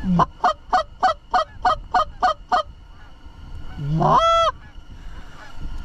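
Canada goose honking: a rapid run of about nine short, evenly spaced honks, then one long drawn-out honk about four seconds in.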